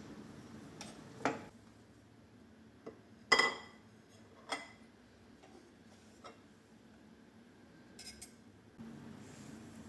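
Dishes and cutlery clinking in a kitchen: a handful of separate knocks, the loudest about three seconds in, ringing briefly like china or glass.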